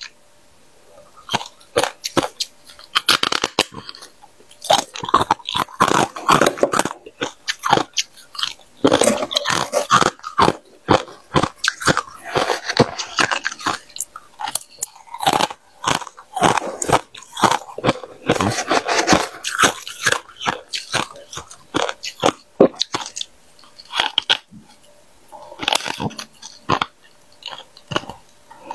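Freezer frost being bitten and chewed: crisp crunching in rapid clusters with short pauses between bites.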